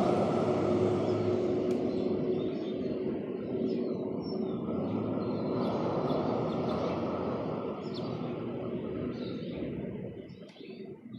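Small birds chirping at a feeder, short high calls scattered throughout, over a steady low mechanical rumble that fades away near the end.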